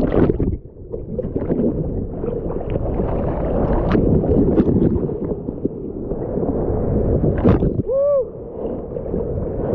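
Ocean surf churning and splashing right around the camera in the water, a rough rush of whitewater with scattered splashes. About eight seconds in there is a brief pitched squeal.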